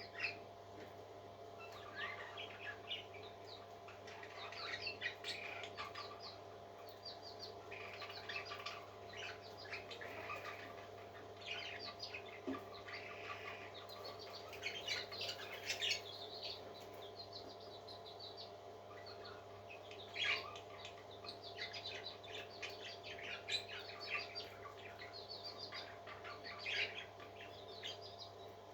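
Birds chirping in quick runs of short, high peeps over a steady low hum.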